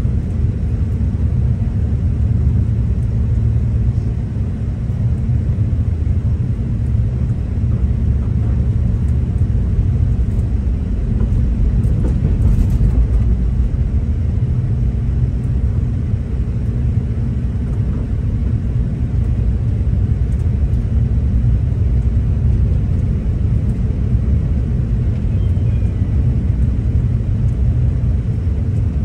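V/Line diesel train heard from inside the passenger carriage: the steady low rumble of the train running along the track, holding even with no breaks.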